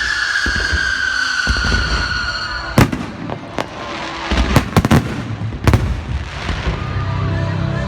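Fireworks at close range: a long whistle falls slowly in pitch and cuts off about three seconds in. It is followed by a string of sharp, separate bangs, several of them bunched together about two seconds later.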